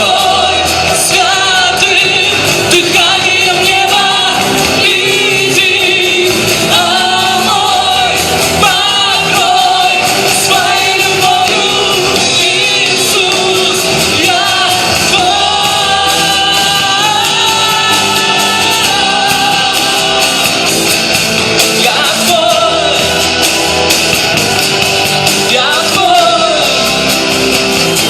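Christian worship song played by a band with voices singing, loud and continuous, echoing in a large hall.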